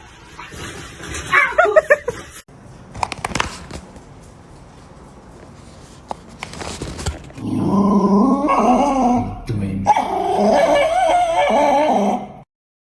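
A dog whining and barking: a short call about a second in, then a long stretch of loud, wavering calls over the last five seconds that stops just before the end.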